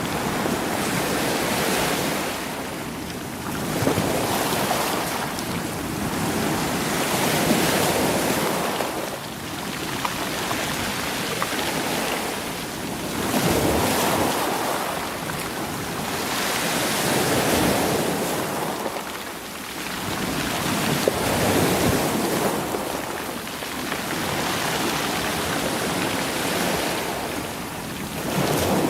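Sea waves surging in over rocks and rolling stones, swelling and draining back about every three to four seconds, with faint ticks of stones knocking together.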